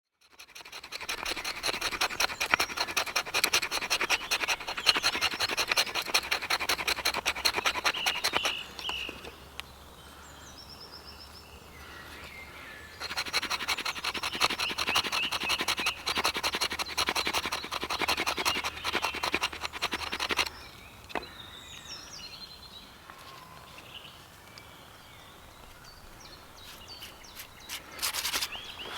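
Fast, repeated scraping in two long bouts, each several seconds, from fire preparation with a tool. Birds call faintly in the pause between the bouts.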